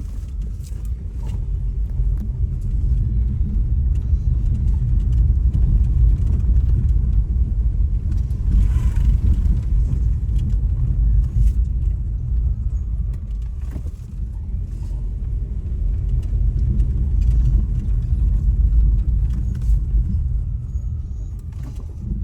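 Steady low rumble of a vehicle travelling along the road, with the level swelling and easing a little as it goes.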